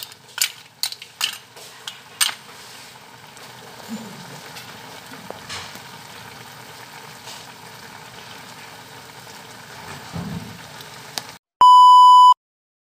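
Food frying in a pan with a steady sizzle, with a few sharp clinks of a utensil against the pan in the first couple of seconds. The sizzle cuts off near the end, and a loud, steady electronic beep sounds for under a second.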